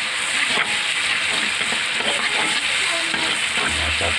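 Salted shark pieces and chopped spices frying in oil in a wok, a steady sizzle, stirred with a metal spatula that scrapes against the pan now and then.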